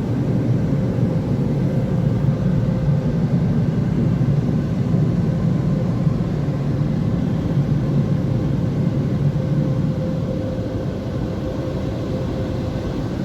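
Car wash air dryer blowers running steadily, heard from inside the car: a loud, even rushing rumble with a faint steady whine, easing off slightly near the end.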